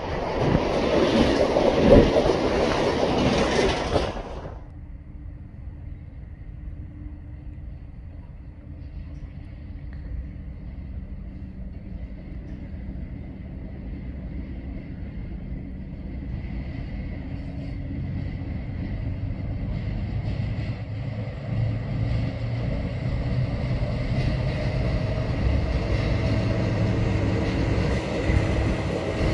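Container wagons of a freight train rolling past close by, wheels and couplings clattering loudly for about four seconds. Then, quieter and farther off, the train's two diesel locomotives approach across a bridge, their engines' low running sound growing steadily louder toward the end.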